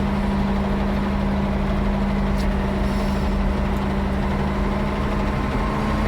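Ford 9700 tractor's six-cylinder diesel engine running steadily, its pitch starting to rise slightly near the end as it picks up revs.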